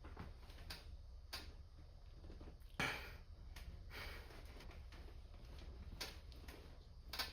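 Weightlifter's short, forceful breaths through a hard, grinding incline press set, over a low steady hum. The loudest breath comes about three seconds in, and another near the end.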